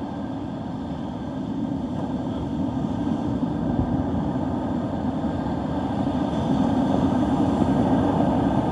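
Gusty wind blowing across the microphone, a low steady rumble that grows stronger through the second half.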